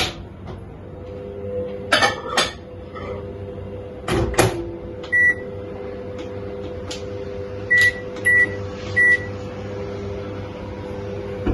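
Microwave oven being shut and started: a couple of knocks as the door closes, a single beep, then three keypad beeps, over a steady hum.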